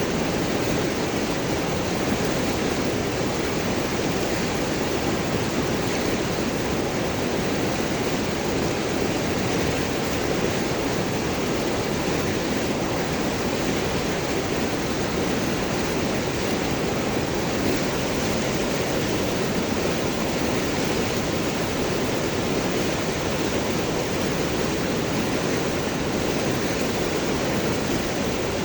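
River water rushing and gurgling over and around large rocks, a steady, even wash of flowing water.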